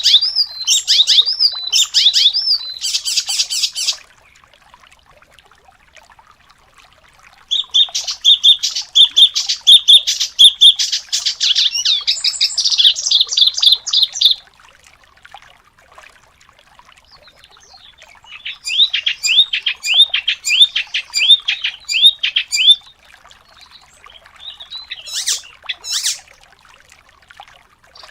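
Songbird song in fast, high-pitched bursts of rapidly repeated chirps and trills, in four bouts with pauses of a few seconds between them.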